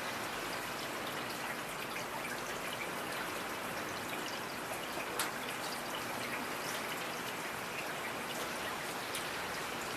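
Steady rain falling, with scattered sharp drops ticking on a hard surface; one louder drop about five seconds in.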